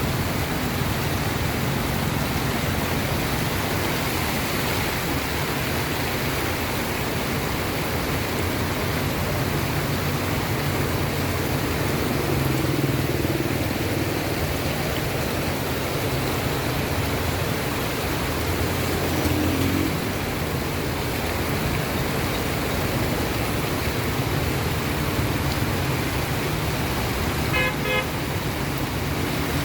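Steady rain hiss mixed with passing road traffic engines, and one short vehicle horn toot near the end.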